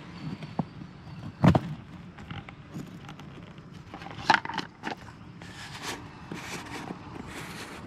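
Handling noise of someone searching by hand: scattered knocks, clicks and rustling, with two sharper knocks about a second and a half and four seconds in.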